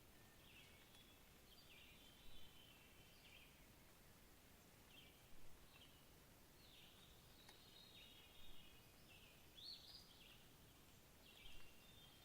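Faint birdsong: wild birds chirping in short, repeated phrases every second or two, over a low, steady background hiss.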